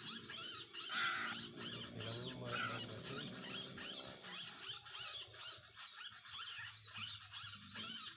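A bird calling over and over in short, arched notes, about two a second, with a low steady hum underneath and a brief louder sound about a second in.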